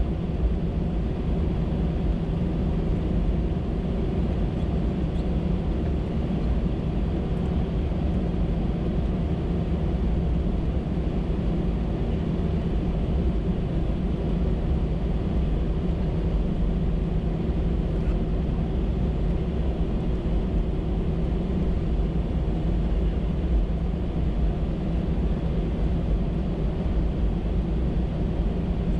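Steady cabin drone of an Airbus A319-112 with its jet engines running at low power, a constant low rumble with a hum.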